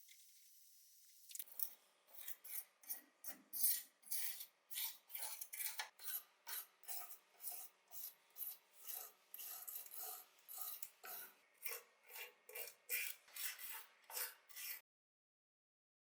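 Repeated hand rubbing strokes, about two a second, as a diecast model car part is sanded or filed down during restoration. The strokes stop suddenly near the end.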